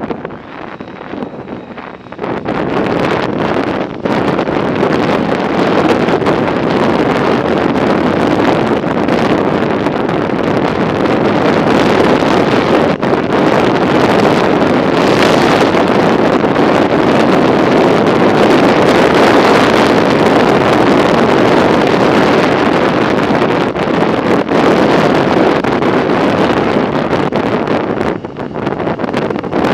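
Wind buffeting the microphone of a camera riding on a moving bicycle: a loud, steady rush that swells about two seconds in.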